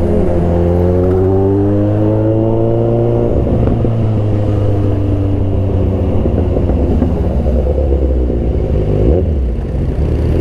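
Kawasaki Z900RS inline-four engine running through an Arrow aftermarket exhaust under way: the engine note slides downward for about three seconds, then gives way to a steady, rougher low rumble, with a short rise in revs near the end.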